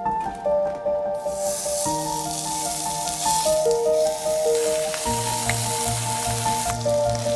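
Soft background music with a steady sizzling hiss of food frying in a pan. The sizzle starts about a second in and stops shortly before the end.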